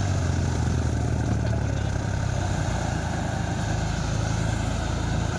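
Diesel farm tractor engine running steadily, its low note shifting only slightly.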